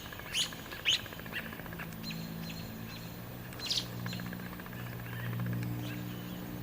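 Agitated northern mockingbird giving short, sharp calls: three in quick succession at the start and another about four seconds in, the scolding of a bird harassed by a cat. A steady low hum runs underneath.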